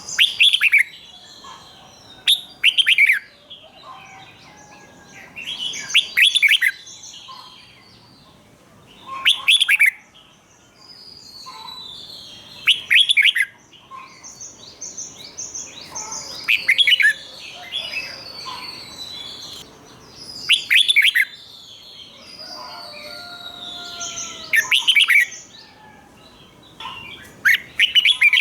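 Red-whiskered bulbul singing: short loud song phrases repeated every three to four seconds, about nine of them, with softer chirps between.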